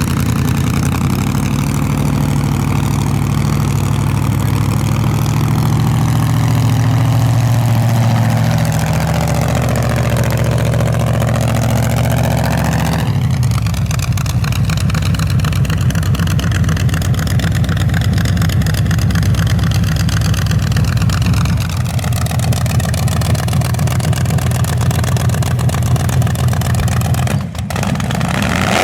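Race truck's engine running loud at high, steady revs, its sound changing abruptly about 13 seconds in and dipping briefly near the end.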